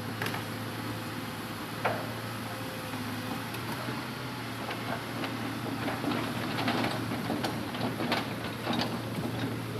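Hitachi Zaxis 200-5G excavator's diesel engine running steadily, with scattered knocks and clatters of timber logs being loaded. The knocks come thickest in the second half.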